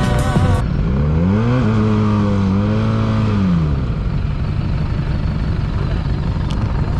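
Motorcycle engine revving: the pitch climbs over about half a second, holds high for about two seconds, then drops back. A steady low rumble of engine and wind noise continues underneath and carries on after the rev.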